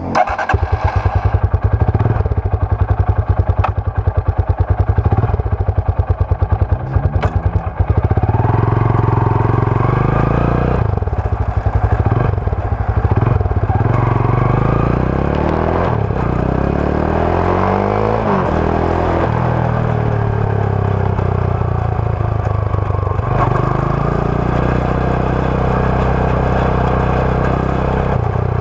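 Rusi Sigma 250 motorcycle's stock exhaust: it idles with distinct separate pulses for the first several seconds, then the bike pulls away and runs up through the gears, the pitch rising and dropping back with each shift.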